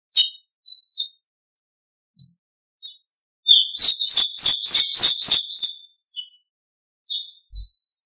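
Small birds chirping with short high notes on and off, and, about halfway through, one loud close call of about six rapid, harsh notes lasting roughly two seconds.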